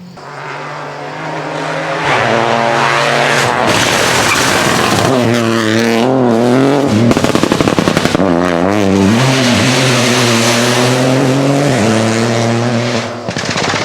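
Rally car engine at high revs passing close, its pitch falling and climbing again several times as it brakes and accelerates, with a short rapid stuttering crackle in the middle.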